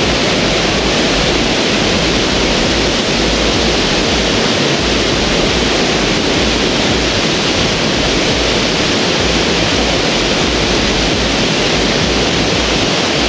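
Rainbow Falls waterfall: a steady, loud rush of falling water with no break or change.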